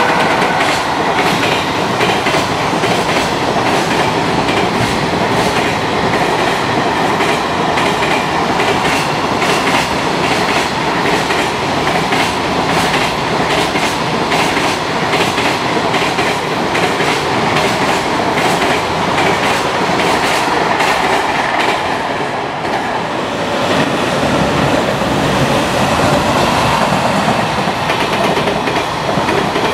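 Long container freight train passing at speed, its wagon wheels clattering steadily over the rail joints. The clatter dips briefly about three-quarters of the way through, then picks up again.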